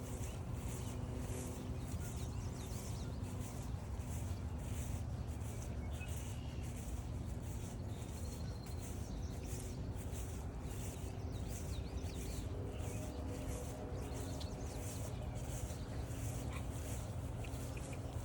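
Footsteps swishing through mowed grass on a trail, about two steps a second, with a few faint bird chirps in the background.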